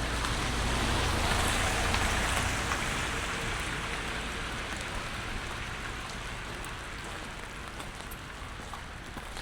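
Rain falling on wet pavement. A passing vehicle's tyres hiss on the wet street, swelling with a low rumble in the first couple of seconds and then slowly fading away.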